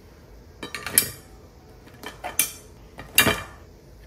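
Cookware clattering in three short bursts of knocks and scrapes, the last the loudest, as steamed crabs are lifted out of the steaming pot.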